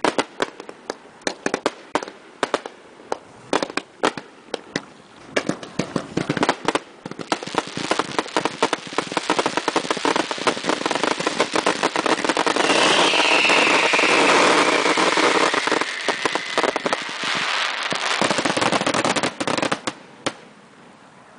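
Consumer (1.4G) fireworks finale: a rapid string of sharp bangs that builds into a dense, continuous barrage about halfway through, with a falling whistle in the thick of it. It then thins to a few last bangs and dies away near the end.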